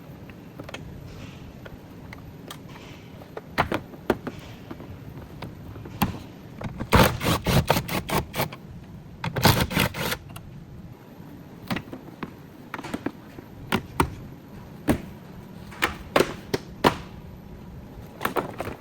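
Scattered sharp clicks and knocks of hands and tools working on a car, with two short runs of quick clicking about seven and nine and a half seconds in, over a steady low hum.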